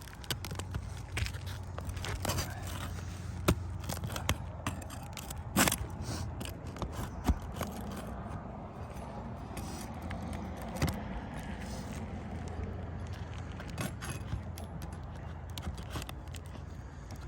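Asphalt roof shingles being pried up and scraped loose, with scattered sharp clicks and knocks of a metal tool against shingles and nails.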